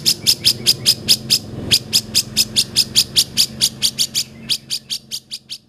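Cucak jenggot (grey-cheeked bulbul) calling in a rapid, even series of short sharp high notes, about five a second, fading over the last second.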